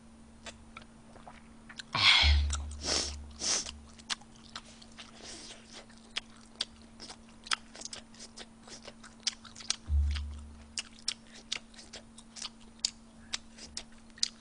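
Close-miked chewing: a run of small wet mouth clicks. A couple of louder thuds and rustles come about two seconds in, and another low thump near ten seconds. A faint steady hum sits underneath.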